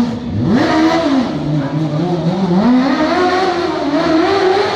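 Racing lawnmower powered by a Honda CBR600 motorcycle's inline-four engine, revving up and down under hard throttle. The revs dip and shoot up right at the start, fall away after about a second, then climb steadily again near the end.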